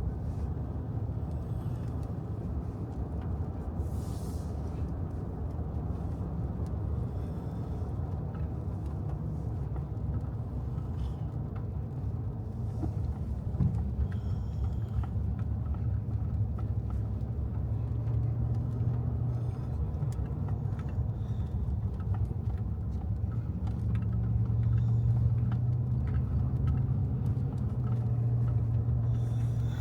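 Truck being driven, heard from inside the cab: a steady low engine and road rumble that grows louder past the middle and again near the end.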